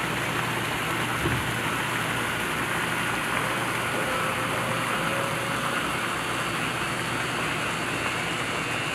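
Water pump motor running steadily under a continuous rushing hiss, with one thump about a second in.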